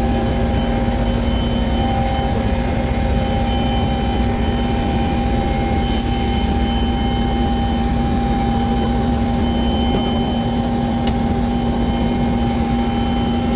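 Helicopter turbine engine and rotor running steadily: a loud, even roar with several steady whining tones over it.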